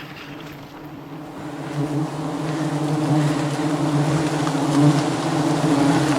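A swarm of wild honeybees buzzing around their nest. The steady drone swells louder about two seconds in.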